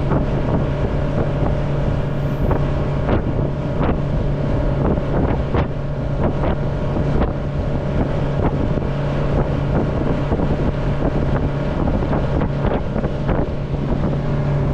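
Motorboat engine running steadily under way, with wind buffeting the microphone and irregular sharp thumps throughout.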